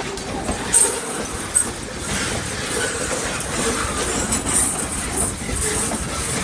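Railroad freight cars rolling past on the track, with a steady rumble of wheels on rail, short high-pitched wheel squeals and a few clicks over the rail joints.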